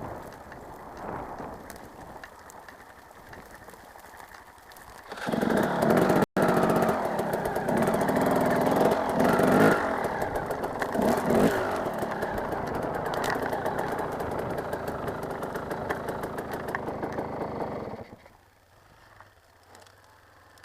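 Motocross bike engine running and revving, moderate at first, then loud from about five seconds in with the pitch rising and falling, and dropping away sharply near the end.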